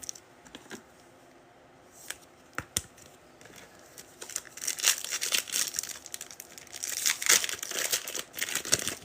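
Foil wrapper of a football trading card pack being torn open and crinkled, a few light clicks at first, then steady crackling over the last few seconds.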